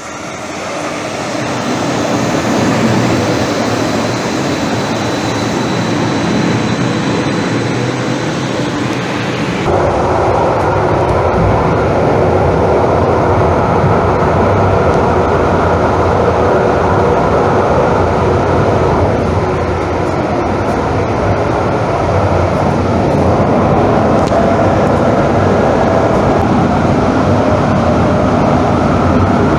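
A Calgary Transit vehicle heard while riding: steady, loud running noise that builds up over the first couple of seconds and changes character abruptly about ten seconds in, becoming deeper.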